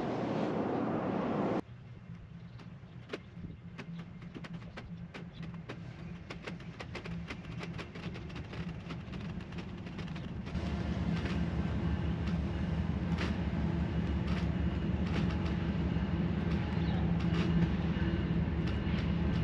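A steady rush of noise cuts off abruptly after about a second and a half. It gives way to a passing train's low, steady rumble with a run of sharp clicks from wheels on the rails, growing louder about ten seconds in.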